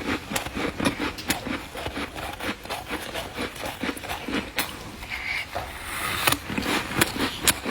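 Freezer frost being crunched and chewed close to the microphone: an irregular run of crisp crackles and crunches, denser about five seconds in.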